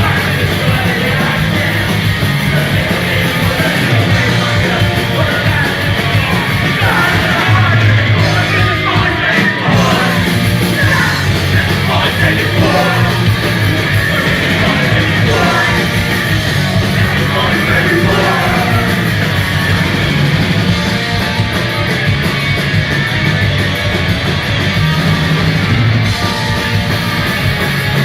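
Punk rock band playing live at full volume, with a dense wall of band sound and shouted vocals.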